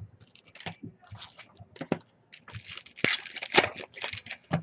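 Foil trading-card pack wrappers crinkling and tearing as packs are opened and cards handled, a run of scratchy bursts that grows busier and louder about halfway through.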